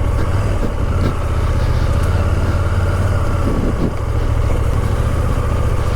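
KTM Duke motorcycle engine running at low, steady revs as the bike picks its way over a narrow, rocky trail.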